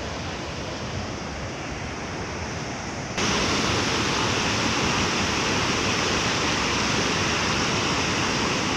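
Flooded waterfall of the Narmada river, a steady rush of falling water that suddenly becomes louder and brighter about three seconds in.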